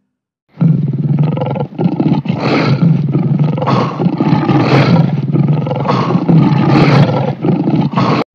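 Several lions roaring and growling together, the rough, overlapping roars swelling again and again about every half second. They start after a brief silence and cut off abruptly at the end.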